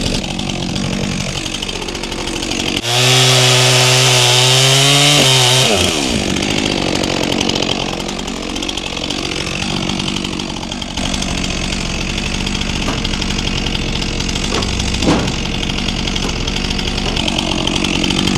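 Stihl MS400C chainsaw bucking logs into firewood rounds, its engine rising and falling with the throttle. About three seconds in, it is held at full throttle for about three seconds, the loudest part, before the revs drop.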